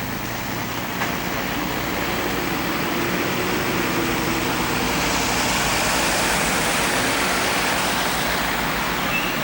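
A car passing on a wet, snowy street: tyre hiss swells to a peak about six seconds in and then eases. Under it runs the steady low electrical buzz of the Sony Hi8 Handycam's recording.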